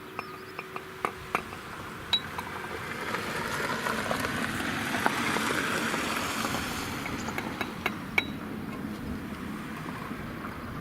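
Scattered light taps and clinks of a trowel on Röben Sydney brick and mortar as bricks are set and knocked level. In the middle a broad rushing noise swells up over a few seconds and fades again.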